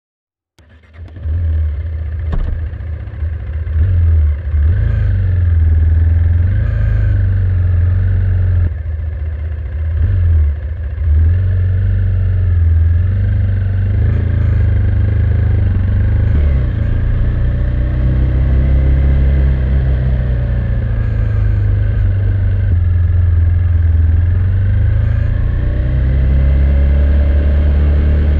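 KTM Duke 390's single-cylinder engine running through its stock exhaust, starting suddenly about half a second in. The engine note is steady and deep, its pitch drifting up and down, with a slow rise near the end.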